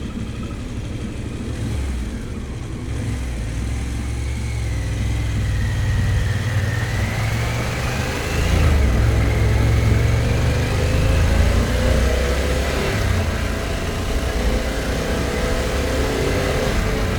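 2022 Harley-Davidson Pan America's Revolution Max 1250 V-twin running under way, with wind and road rumble on the camera microphone. About halfway through it gets louder, and the engine note climbs as the bike gathers speed.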